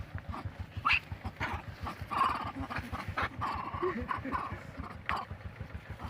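Baby monkey giving short squeaks and whimpers among scattered clicks, over a steady low hum.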